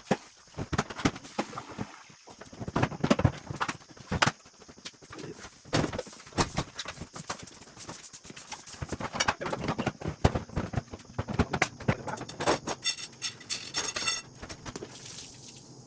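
An uneven series of sharp knocks and clacks, with a quick rattling run of clicks near the end.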